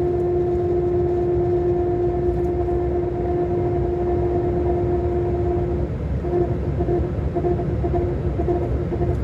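Scania K400 Euro 5 coach's diesel running, a steady low rumble with a steady whine over it. About six seconds in, the whine breaks up and comes and goes.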